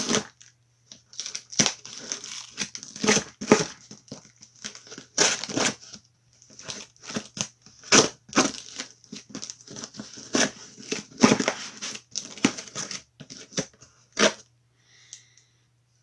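Packing tape being torn off a cardboard box and the flaps pulled open: a long run of irregular tearing and crumpling noises over a faint low hum.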